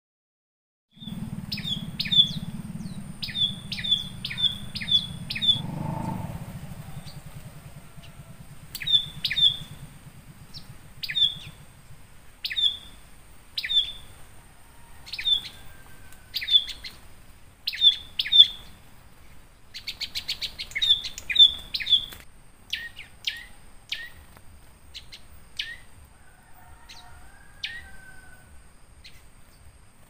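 A small songbird calling repeatedly, sharp downward-sweeping chirps in runs of several, about half a second to a second apart, starting about a second in. A faint steady high-pitched tone runs behind them.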